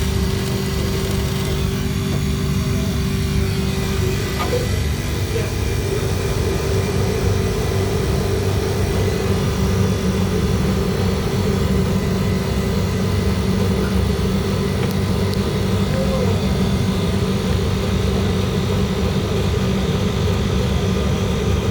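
Refrigeration condensing unit running with a steady, loud mechanical hum and a constant low drone.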